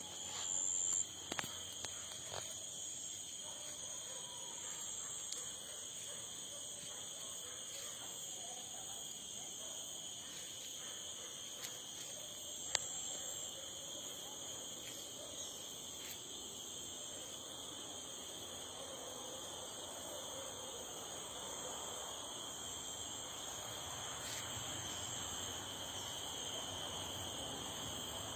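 Steady chorus of insects, a continuous high-pitched shrilling that never breaks, with a few faint clicks in the first couple of seconds and one about 13 seconds in.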